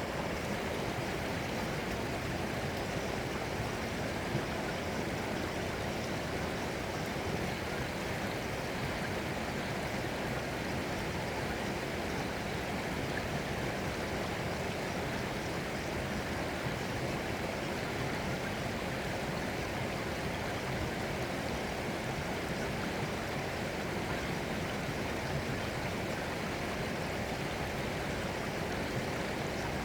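Running water, like a stream, rushing steadily and evenly without a break.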